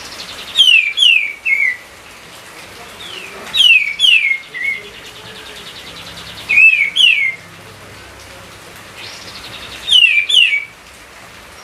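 A songbird repeating a short phrase of two or three quick, clear downslurred whistles, four times at roughly three-second intervals, over a faint steady hiss.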